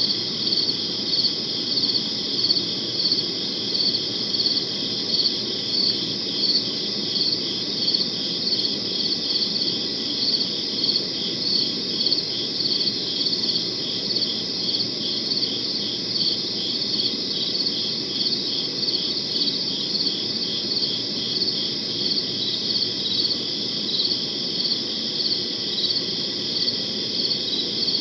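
Crickets chirping: a continuous high-pitched trill with regular chirps about twice a second, over a low steady background hiss.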